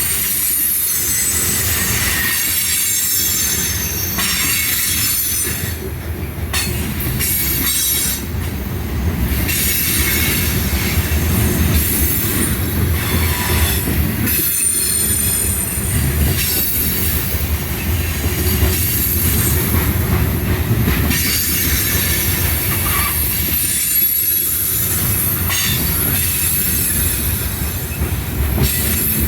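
CSX freight train's railcars rolling past, steel wheels squealing against the rails over a steady low rumble.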